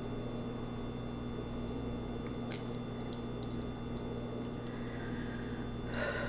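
Quiet room tone with a steady electrical hum and a few faint clicks in the middle.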